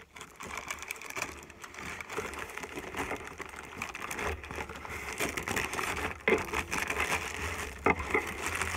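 Rapid rustling and crinkling of packaging being handled, with two sharp knocks in the second half.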